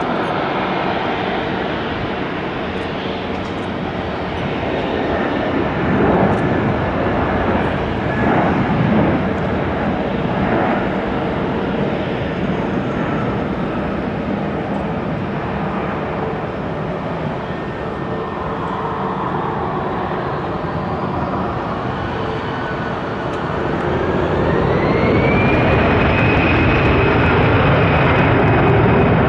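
Airbus A320 jet engines during landing: a steady jet noise with a faint whine that slowly drops in pitch. About three-quarters of the way through, the engine whine rises in pitch and the sound grows louder, then holds.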